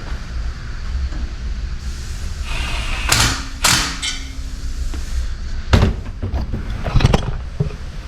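A steady low hum under handling noises: two sharp scrapes about three seconds in, then a few short knocks around six and seven seconds.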